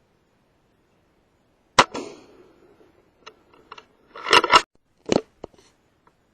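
Theoben Rapid 7 air rifle: one sharp shot about two seconds in, then a run of metallic clicks and a loud double clack, as the rifle is handled and cycled.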